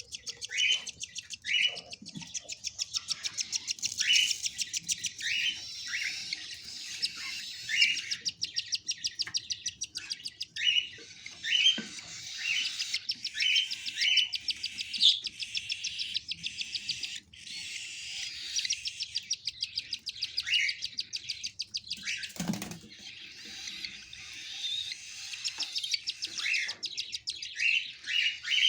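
Cockatiels calling: a rapid, raspy pulsing with short rising chirps about once a second, the sound of a chick begging while its mother feeds it. A single sharp knock about three-quarters of the way through.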